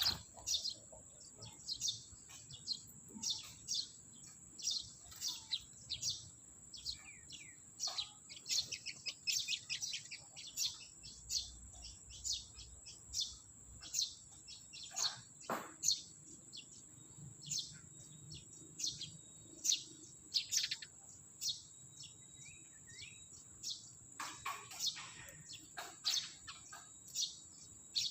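Small birds, likely Eurasian tree sparrows, giving many short, sharp chirps in quick irregular runs. A thin, steady high-pitched whine runs underneath.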